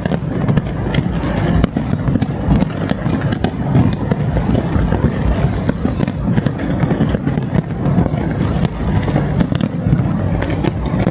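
Fireworks display at full intensity: a dense, continuous barrage of booming shell bursts and sharp cracks, one on top of another.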